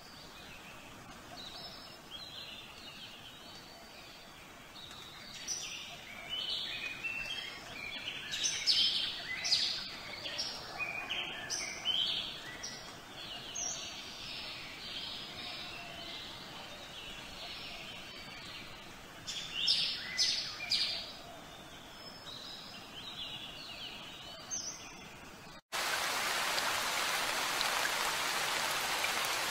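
Birds chirping and singing in short, repeated calls over a faint outdoor ambience. Near the end the sound cuts abruptly to a steady, louder hiss.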